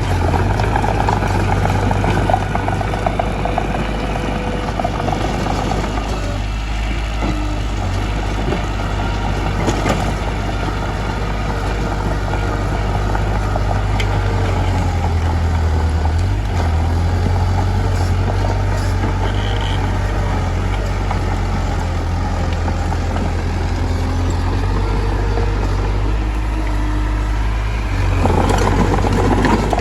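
Mitsubishi bulldozer's diesel engine running steadily, getting briefly louder near the end.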